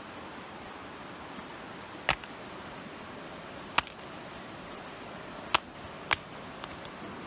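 Steady rush of a creek with a few sharp clicks or knocks at uneven gaps, one every second or two; the loudest come about two and four seconds in.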